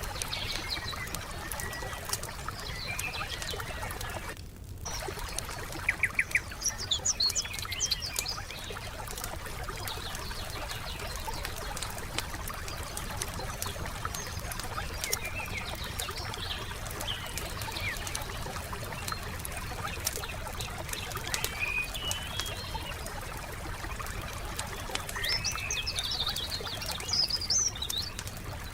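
Campfire crackling with scattered pops, under small forest birds chirping in short bursts, busiest about six seconds in and again near the end. A steady trickle of water runs beneath.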